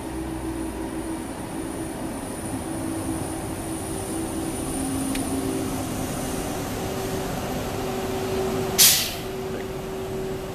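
VR Sm3 Pendolino electric train running slowly alongside the platform and braking to a stop, a steady rumble with a steady hum and a faint high whine that fades out past the middle. About nine seconds in comes one short, loud hiss of air.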